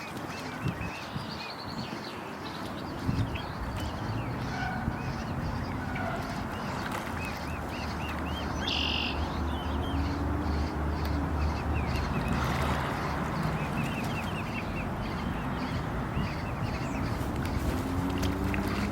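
Swan cygnets peeping in short, repeated high chirps, with a few lower calls mixed in. A steady low hum runs under the middle of it.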